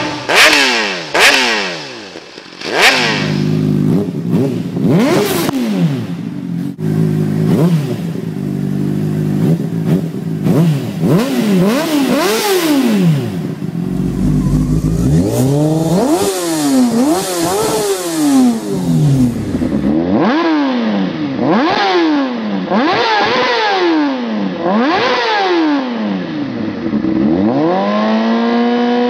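Honda CBR600RR's inline-four engine revved again and again through its exhaust, the pitch climbing and falling in quick blips over a steady idle. There are a few sharp loud cracks in the first few seconds.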